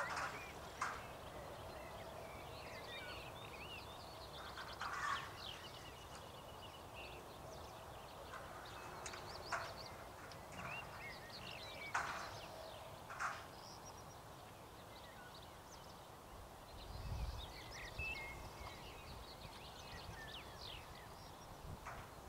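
Birds chirping and calling across an open field, with a few sharp knocks now and then.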